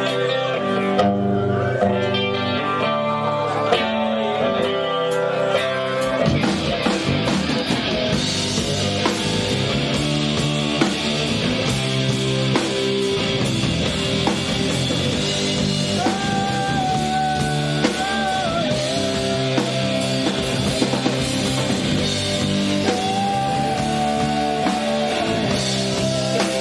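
Live rock band playing an instrumental passage: guitar alone at first, then drums and the full band come in about six seconds in. Later there are two long held notes.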